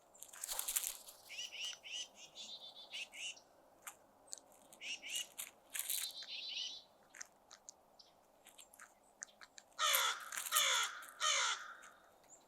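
Crows calling at a feeding spot: three loud, harsh caws in quick succession near the end, with two stretches of quicker, higher bird calls earlier and scattered sharp clicks and taps in between.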